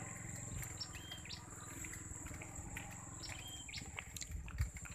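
A bird repeating a short high call about every two seconds, over a low rumble with small knocks from walking on a dirt track and a steady thin high-pitched tone.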